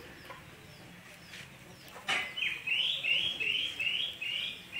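A knock about two seconds in, then a bird calling in a quick run of short chirps, about three a second.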